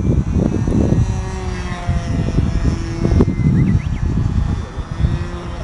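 Radio-controlled model airplane's small engine buzzing in flight, its pitch drifting slightly up and down. Low wind rumble on the microphone is the loudest part.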